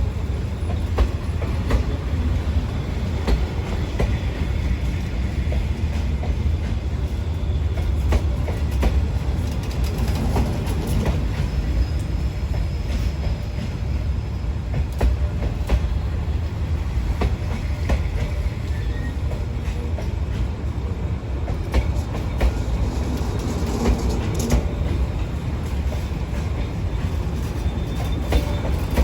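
Passenger railway coach rolling along the track at speed: a steady low rumble, with the wheels clacking irregularly over rail joints.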